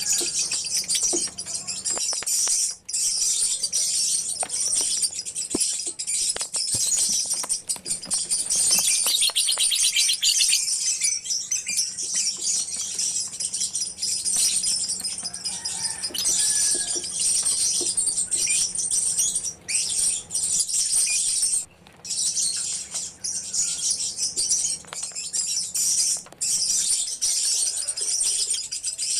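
A colony of lovebirds chirping and chattering together in a dense, continuous, high-pitched chorus.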